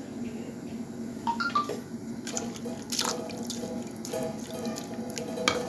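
Water splashing and dripping, with scattered clicks and taps over a steady low hum.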